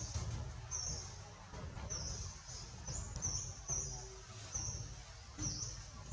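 A bird chirping repeatedly in short, high notes, about eight in a few seconds, over a low rumble.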